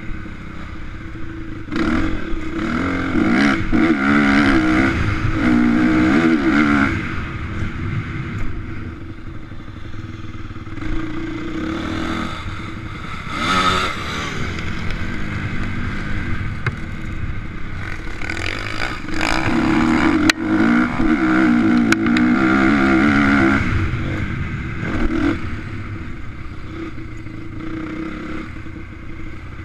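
Motocross bike engines revving up and down as they ride the track, loudest twice, from about two to seven seconds in and again from about nineteen to twenty-four seconds, with fainter engine noise between.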